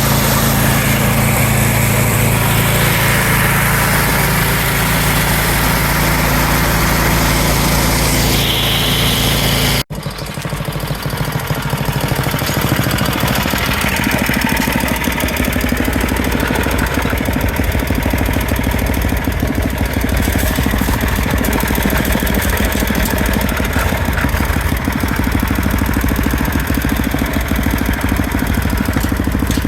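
Gas snowblower engine running steadily while clearing deep snow. The sound breaks off sharply for an instant about ten seconds in, then carries on.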